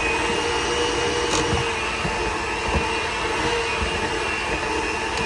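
Electric hand mixer running at high speed with a steady motor whine, beating thick, heavy cookie dough after the flour has gone in.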